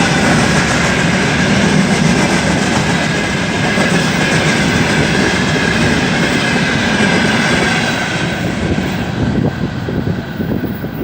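Freight train wagons rolling past, wheels clattering over the rail joints with a high steady whine. The noise thins out and drops from about eight seconds in as the end of the train goes by.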